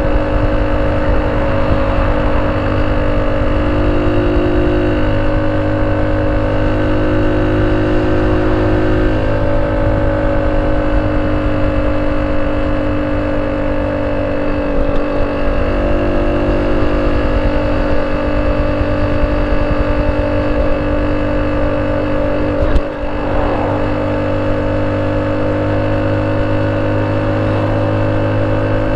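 Honda C70's small single-cylinder four-stroke engine running at a steady speed through a banana-type exhaust, with a single sharp knock about three-quarters of the way through.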